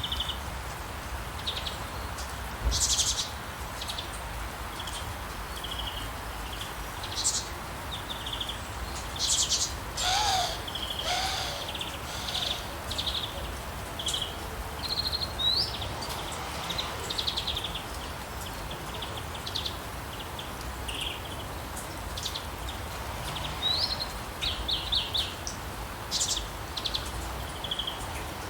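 Songbirds chirping and trilling in many short, scattered calls over a steady hiss of rain, with one lower call about ten seconds in.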